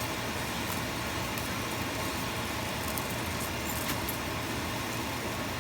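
Steady sizzling of chicken and black beans cooking in a pan, with a few faint pops.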